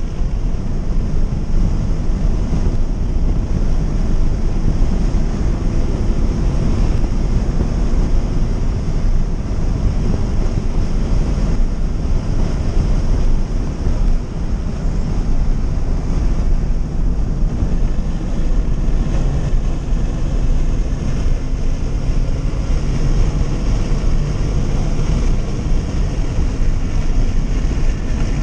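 Scion FR-S's 2.0-litre flat-four engine pulling hard around a race track, heard from inside the cabin with a heavy rumble of road and wind noise. A brief dip about halfway through marks a gear change.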